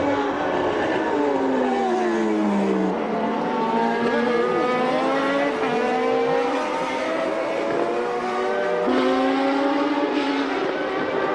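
1989 Formula One cars' naturally aspirated 3.5-litre engines at racing speed. The engine note falls over the first three seconds as the cars slow, then climbs in steps through the gears, drops sharply again about nine seconds in, and rises once more.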